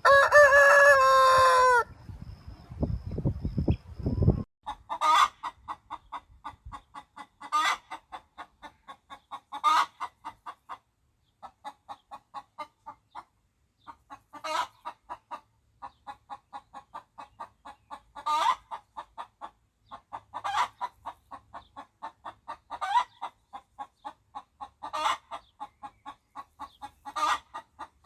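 A rooster crows once at the start, a single drawn-out call that falls off at its end. Then chickens cluck in a quick, steady run, about three or four clucks a second, with a louder call every two seconds or so.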